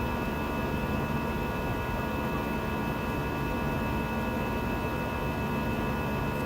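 Steady cabin noise inside an Airbus A320-216 in flight: an even rush of engine and airflow noise with a steady hum and several faint, steady whines above it.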